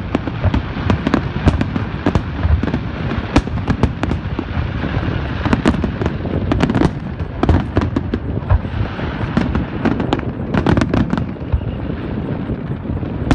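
Fireworks display with shells bursting in quick succession: a steady low rumble of booms, broken by many sharp cracks that bunch together about halfway through and again near the end.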